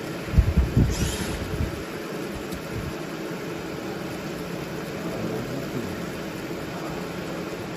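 A CO2 laser marking machine running with a steady hum and hiss. A few low thumps come about half a second to a second and a half in.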